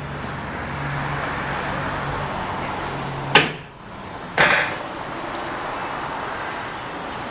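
Steady vehicle noise with a low engine hum. A sharp knock about three seconds in cuts the hum off, and a second knock follows about a second later.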